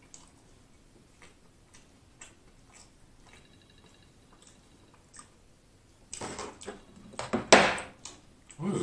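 Close-up eating sounds of crispy fried chicken: faint wet mouth clicks at first, then from about six seconds in loud crackly crunching and chewing of the breaded chicken.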